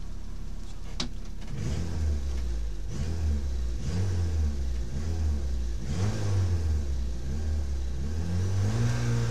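Peugeot 106 XSi rally car's engine, heard from inside the cabin, idling and then blipped over and over, each rev rising and dropping back, before being held at higher revs near the end as the car waits at the stage start.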